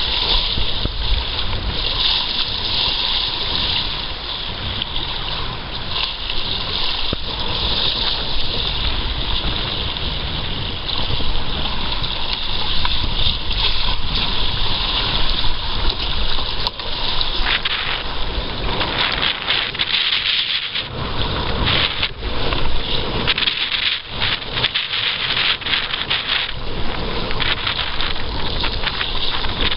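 Wind buffeting the microphone over water rushing and splashing along a sailing kayak's hull, turning choppier in the second half.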